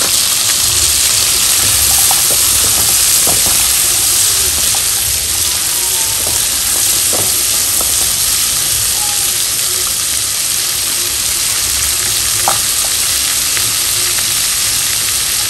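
Vegetables sizzling steadily as they shallow-fry in butter in a wok, with a few light taps of a silicone spatula stirring them.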